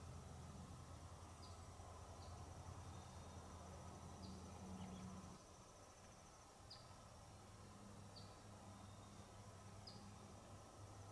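Faint woodland ambience: a steady high-pitched insect trill, with short high chirps every second or two, over a low hum.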